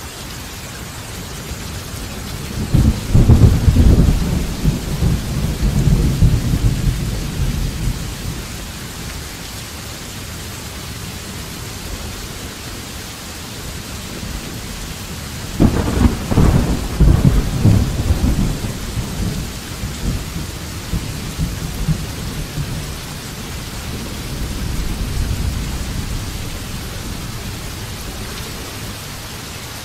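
Steady rain with rolling thunder: a first peal builds about two and a half seconds in and rumbles for several seconds; a second starts sharply about halfway through and rolls on, followed by a fainter rumble near the end.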